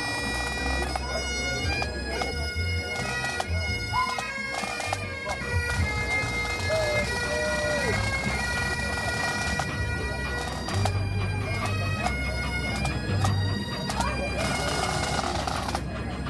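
Bagpipes playing a tune of held notes over a steady drone.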